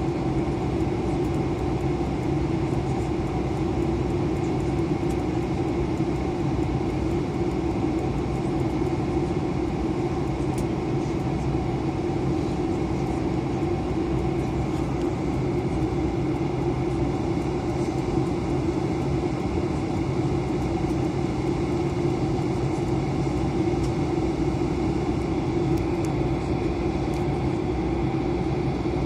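Steady drone of engines and rushing air inside an Airbus A320 airliner's cabin, a constant hum at an even level with no change.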